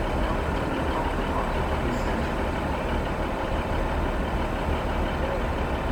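Steady low rumble of a diesel train idling at a station platform.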